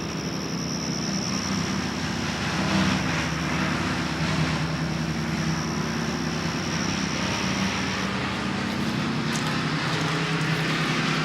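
A steady motor-like rumble with a hiss behind it, like a vehicle running. A thin high whine over it stops about eight seconds in.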